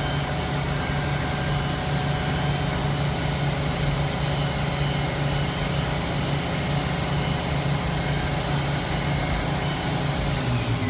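Fadal VMC 4020 CNC vertical machining centre running its last programmed operation: a steady mechanical hum with a hiss over it. The low hum shifts slightly lower near the end.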